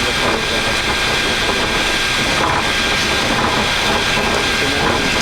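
Steady flight-deck noise of a Boeing 737 MAX taxiing in on one engine after landing: an even rush of engine and air noise with a thin, steady high tone running through it.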